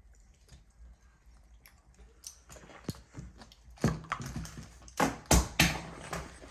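Toy monster truck knocking and clattering on hard surfaces as it is dropped. A few knocks come about four seconds in, then a quick run of loud knocks about a second later.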